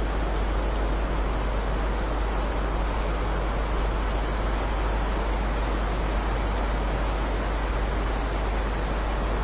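Steady heavy rain: an even, unbroken hiss with a strong low rumble underneath, no single drops or thunder standing out.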